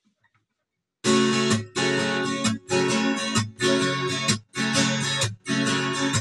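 Acoustic guitar strummed in a steady rhythm, starting about a second in, with a short choked break roughly once a second: the introduction to a song.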